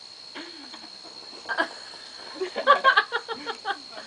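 Crickets chirring steadily in the background, with a few indistinct voices talking over it.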